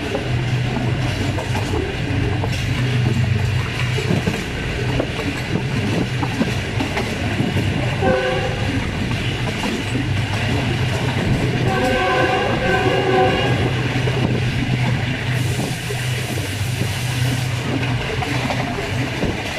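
Passenger train running fast on jointed track, heard from a coach window: wheels clicking over the rail joints above a steady low hum. The GE U20 locomotive's horn sounds twice, a short blast about eight seconds in and a longer one about four seconds later.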